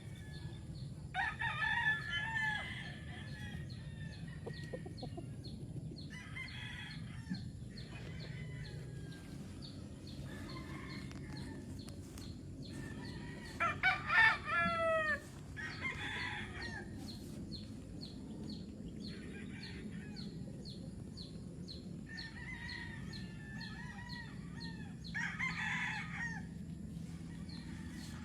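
Roosters crowing several times, with chickens clucking in between; the loudest crow comes about halfway through.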